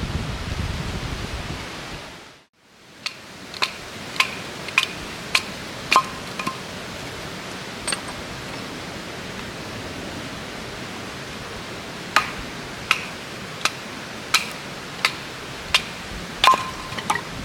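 Wind buffeting the microphone, then after a cut a steady rushing background with two runs of sharp metallic strikes, about one and a half a second, each with a short ring: a hammer driving metal tent pegs.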